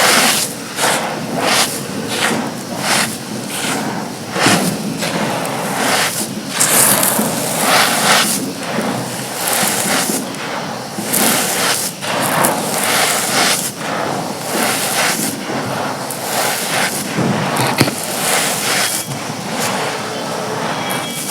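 Dry, brittle black brick-like chunks being crushed and crumbled, making a dense run of crisp crunches and crackles that come in irregular clusters.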